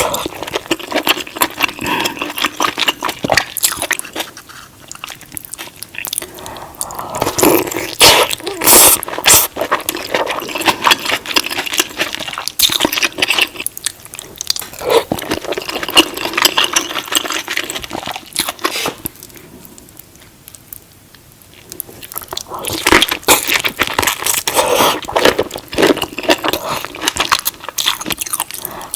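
Close-miked eating of a seafood boil: crunching and chewing with many sharp clicks and cracks, easing off briefly about two-thirds of the way through.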